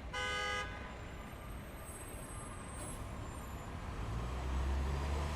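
Street traffic: a short horn toot about half a second long at the start, then a vehicle's engine rumble building up louder near the end.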